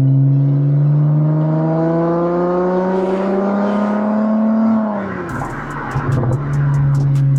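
2020 Acura TLX's 3.5-litre V6 through a custom catback exhaust, with the stock mufflers and resonators replaced by two Vibrant Ultra Quiet resonators, heard from the rear bumper under acceleration. The engine note rises steadily for about five seconds, then drops sharply as the throttle closes or the car shifts, and settles back into a steady drone near the end.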